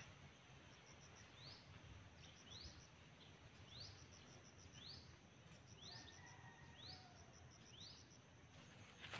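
Faint outdoor ambience of birds and insects: short rising chirps repeat about once a second, over quick pulsed insect chirping.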